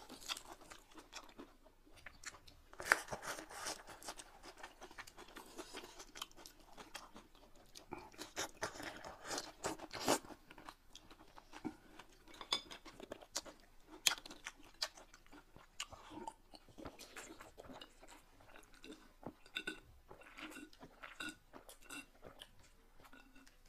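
Chewing and crunching of food in irregular bites, with many small clicks.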